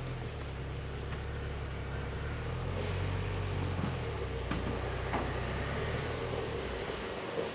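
Waterfall rushing: a steady wash of water noise over a heavy low rumble.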